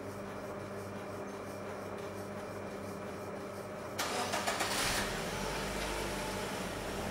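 A car engine runs steadily with an even hum. About four seconds in, a loud rush with some rattling lasts about a second as the large bay doors swing open, and the engine's low rumble then grows stronger as the car pulls forward.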